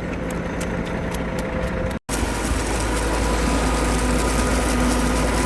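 Truck engine running steadily, a low even drone. About two seconds in the sound cuts out for an instant, then the drone resumes a little heavier in the low rumble.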